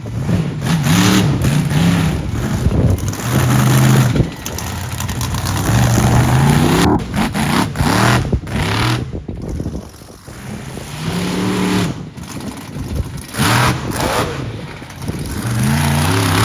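Monster truck engine revving hard in repeated bursts, its pitch climbing with each burst every two to three seconds, with short knocks in between.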